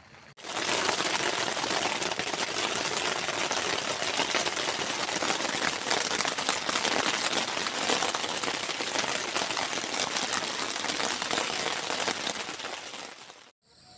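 Heavy rain falling on a tent's fabric roof, heard from inside the tent: a dense, steady rattle of countless drops.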